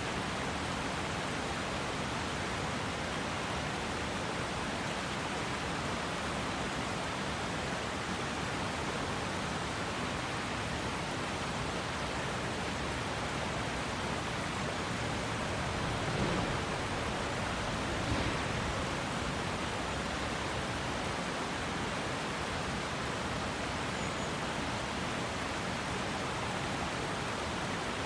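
Small river rushing over its bed, a steady even flow of water, with two brief slightly louder swells a little past the middle.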